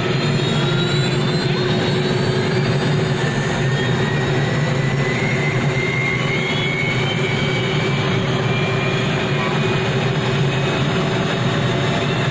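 Helicopter running steadily: a dense engine and rotor noise with a faint high turbine whine drifting slowly in pitch.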